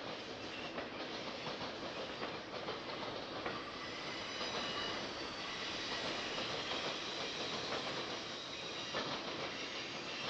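Intermodal freight train's cars rolling past: a steady rumble with wheels clicking over the rail joints, and a brief faint wheel squeal about halfway through.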